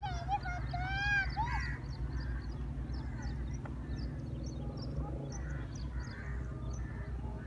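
Birds calling: a quick series of loud, arching calls in the first second and a half, then scattered short, high chirps from small birds, over a low steady rumble.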